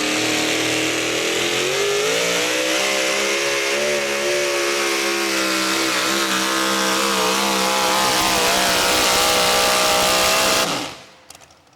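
Modified 4x4 pulling truck's engine running hard at high revs while it pulls the sled, its pitch wavering and climbing a little, then cutting off suddenly near the end as the pull ends.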